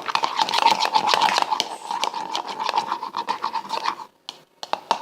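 Slime mixture with detergent being stirred in a container, the stirrer scraping and rubbing busily against the container; the stirring stops about four seconds in.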